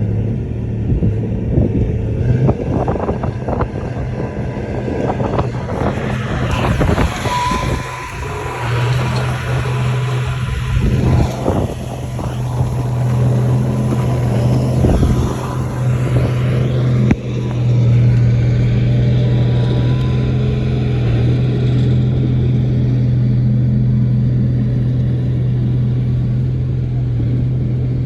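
Bulldozer's diesel engine running with a steady low drone, with irregular clanks and knocks over roughly the first half; after that the engine runs on steadily.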